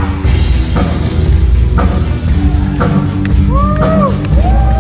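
Rock band playing an instrumental passage between sung lines, with a drum kit keeping a steady beat under sustained instruments.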